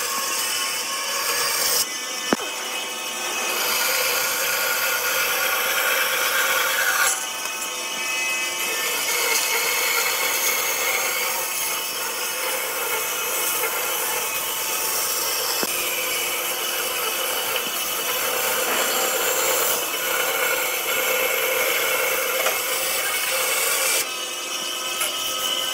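Power tools cutting and working wood: a steady motor whine over dense sawing noise, changing abruptly three times.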